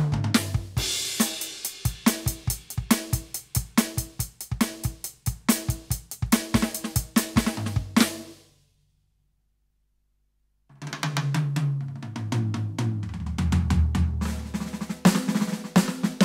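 Roland TD-17KVX electronic drum kit heard through its sound module: a steady groove of kick, snare and hi-hat stops about eight seconds in, followed by two seconds of dead silence. A fill then runs down the toms, dropping in pitch, before the beat comes back in with a cymbal crash near the end.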